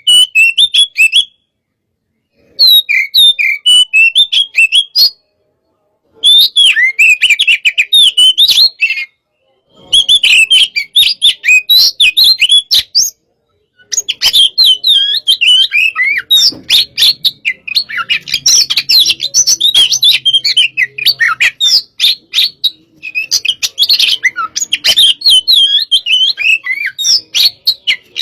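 Oriental magpie-robin (kacer) singing loudly in fast, varied runs of chirps and whistles, broken by pauses of about a second. This is the fired-up, challenging song that keepers draw out by pitting birds against each other.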